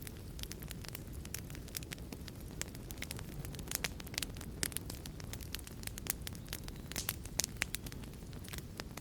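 Wood fire burning in a fireplace: a steady low rumble of flames with many sharp, irregular crackles and pops, several a second.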